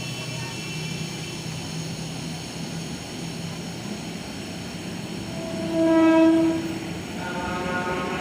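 KRL Commuter Line electric train sounding its horn once, a single steady blast of a little over a second, over the rumble of the train. A second steady pitched sound starts near the end.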